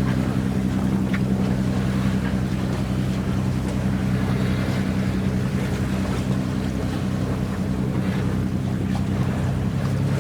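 A boat's engine running at a steady speed, with wind and water noise over it.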